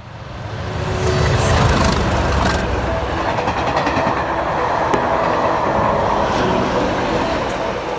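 Diesel locomotive running, a steady mechanical rumble and noise that fades in over the first second or so, then holds steady.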